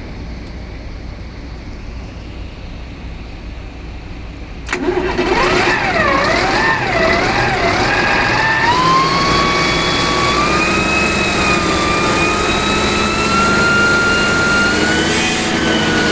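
A low steady running hum, then about five seconds in a hydraulic oil pump comes under load with a loud whine that wavers up and down in pitch, then climbs and holds steady with a few higher overtones. The whine is the abnormal noise of a newly fitted hydraulic oil pump working the system.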